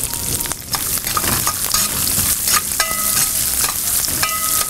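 Sliced onions and dals sizzling in hot oil and ghee in a brass kadai, stirred with a metal spatula that clicks and scrapes against the pan. Twice in the second half the scraping brings out a short ringing metallic tone.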